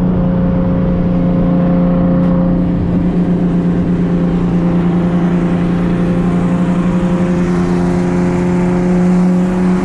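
Boosted Infiniti G37's V6 engine droning at a steady pitch while cruising at highway speed, heard from inside the cabin along with road noise.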